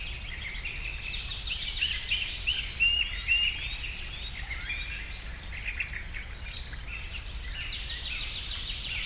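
Many small birds chirping and calling over one another in quick, overlapping notes, over a steady low rumble.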